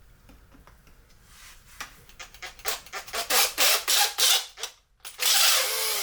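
A tool scraping and rubbing inside a 3D printed plastic part, in a run of short strokes that come faster and louder, then a brief pause and about a second of steady rasping near the end.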